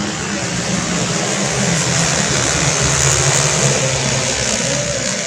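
Racing 125cc automatic scooter engines passing at full throttle, the sound swelling to a peak about three seconds in and then fading.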